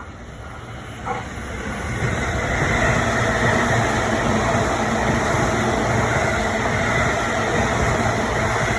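Electric train passing close by: its running noise grows louder over the first two seconds, then holds steady and loud.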